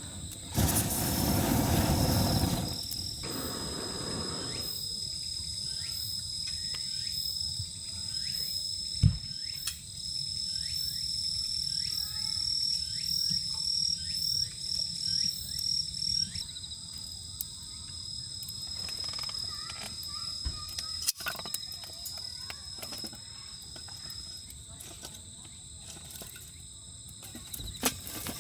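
Crickets chirping in a continuous high trill, with scattered light ticks. A loud rushing noise fills the first few seconds, and a single sharp knock comes about nine seconds in.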